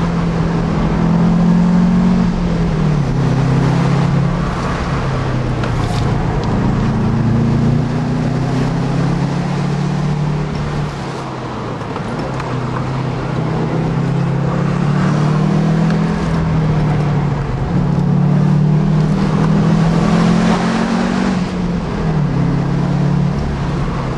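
Subaru Impreza WRX's 2.5-litre turbocharged flat-four engine, heard from inside the cabin, driven hard uphill. Its note repeatedly climbs under acceleration and drops back as the car lifts off or changes gear for the bends.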